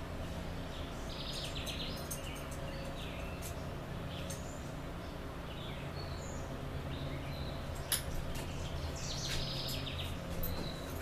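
Songbirds chirping on and off over a steady low background hum, with one sharp click about eight seconds in.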